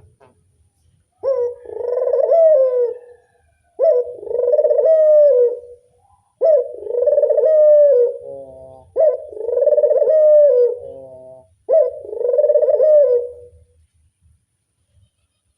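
A puter dove (domestic Barbary dove) cooing: five loud, even coos, each about two seconds long and repeated about every two and a half seconds, then stopping near the end.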